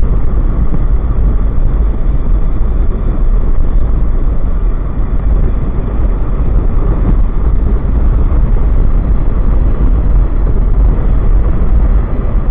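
Loud, steady wind rush buffeting the microphone of a moving motorcycle, mixed with the bike's running and road noise.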